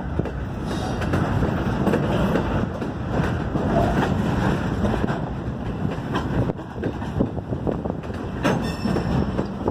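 Ringling Brothers circus train cars rolling past close by, a continuous rumble of wheels on rail with scattered knocks as the slack coupler knuckles bang together.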